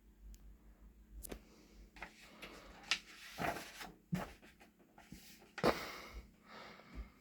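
Paper rustling as the pages of a guidebook are handled and turned: a sharp click early on, then several short brushing rustles, the loudest about two-thirds of the way through.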